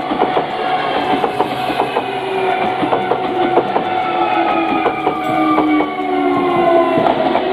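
Electric commuter train passing close by, its wheels clicking over the rail joints. A whine slowly falls in pitch through the second half.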